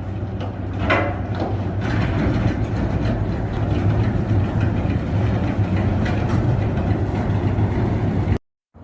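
A heavy engine running steadily with a low drone, with scattered clicks and knocks over it; it cuts off abruptly near the end.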